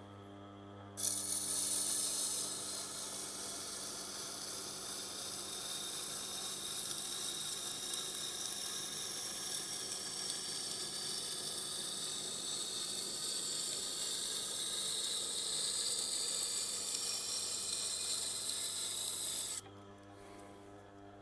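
Steel blade edge being ground against a Tormek wet sharpening wheel: a steady hissing scrape that starts about a second in and stops shortly before the end. The edge is being ground back to remove chips and raise a burr.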